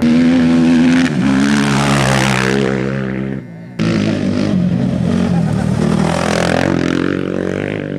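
Off-road race vehicle engines running hard as they pass, a loud, steady drone that breaks off briefly a few seconds in and then carries on.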